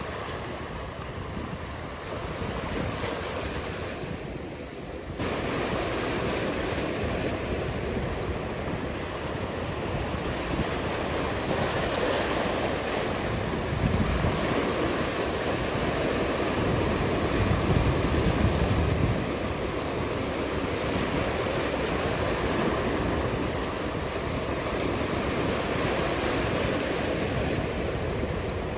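Ocean surf washing and breaking, with wind buffeting the microphone. The sound jumps up abruptly about five seconds in and swells again around the middle.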